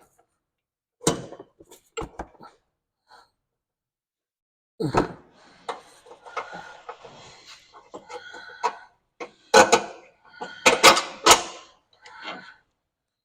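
Suspension parts and tools being handled on a workbench: scattered knocks and clanks, busiest toward the end, where a few sharp loud hits come close together.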